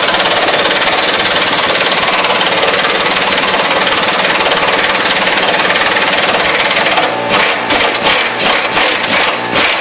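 Impact wrench hammering a bolt loose, running steadily and then in a quick series of short trigger bursts about seven seconds in.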